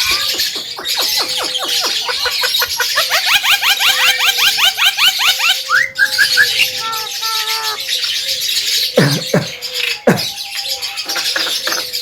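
Javan myna (jalak kebo) calling: a fast run of repeated notes, several a second, climbing in pitch for a few seconds. Then come squeaky whistled notes and, near the end, a few sharp falling calls.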